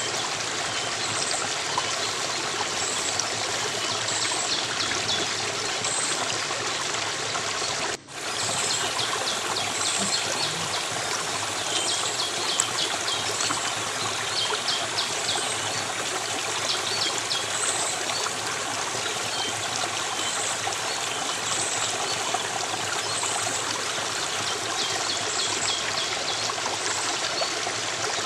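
Running water from a stream trickling and splashing in a steady rush, with short high chirps repeating roughly once a second above it. The sound drops out for an instant about eight seconds in.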